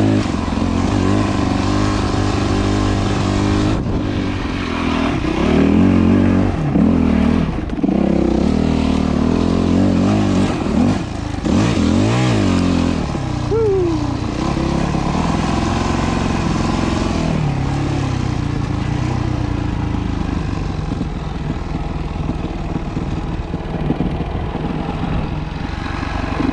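Yamaha WR250F dirt bike's single-cylinder four-stroke engine under ride load, revving up and down with the throttle, then settling to a steadier, lower note for the second half.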